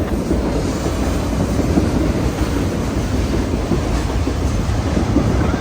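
A train rolling past: a steady, loud rumble of steel wheels on rail with irregular small clanks and knocks from the cars.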